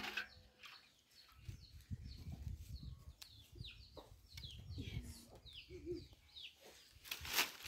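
Birds calling around the yard: many short, high, falling chirps, with a few lower clucking calls about six seconds in. A low rumble comes and goes underneath, and a short noisy hiss near the end is the loudest sound.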